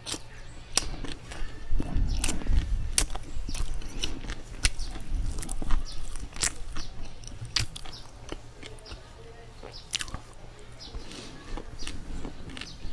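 Close-miked chewing of bread, with wet mouth clicks and smacks coming at an irregular pace, heaviest in the first half.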